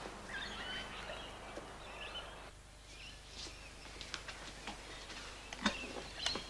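Faint bird chirps over outdoor background noise. About halfway through, the background changes abruptly, and a few short sharp clicks and brief high chirps follow.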